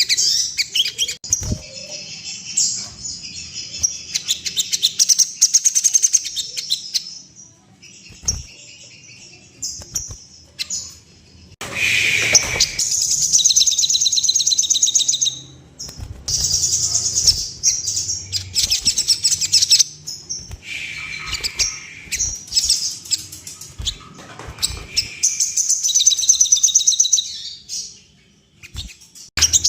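Crimson sunbird (sogon) song: phrases of rapid, high twittering trills a few seconds long, broken by short pauses.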